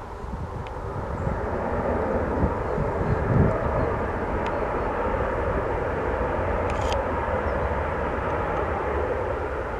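Jet airliner passing, its engine noise swelling over the first two seconds and then holding steady.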